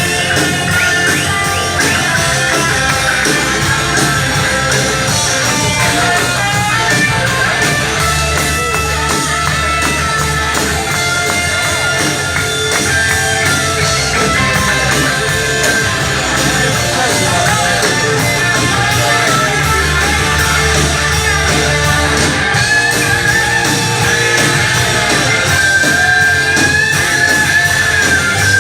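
Rock band playing an instrumental passage: guitar over bass and a steady drum beat.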